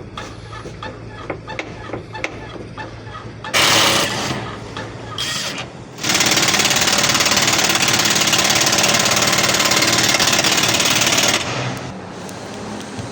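Car suspension squeaking rhythmically as the body is pushed up and down, then a short hiss and, about six seconds in, a long steady spray hiss lasting about five seconds.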